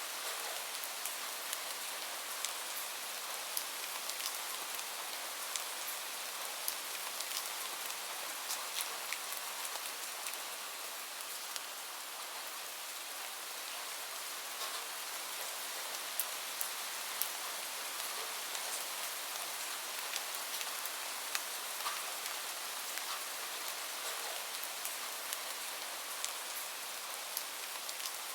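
Steady rain hiss with many short, sharp crackles scattered through it from a wood fire burning in a fireplace.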